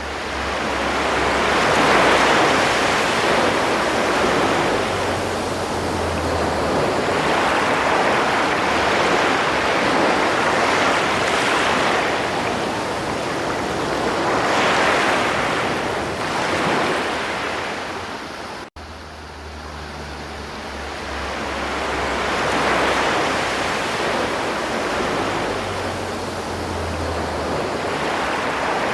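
River water flowing, a steady rush that swells and eases every few seconds. About two-thirds of the way through it cuts out for an instant and starts again.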